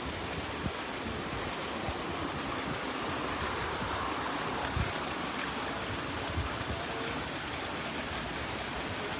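Steady rushing noise with a few soft low thumps.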